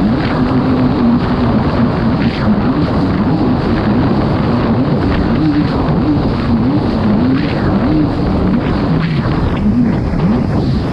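Kawasaki STX-160 jet ski's four-stroke engine running hard at race speed, its pitch rising and falling again and again as the throttle and the hull's grip on the water change, over a steady rush of wind and water noise.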